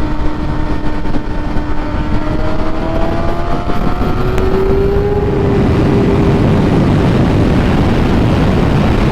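A 600-class sport bike's inline-four engine accelerating, its pitch climbing steadily for about five seconds. Then wind rush on the microphone builds with the speed and swamps the engine.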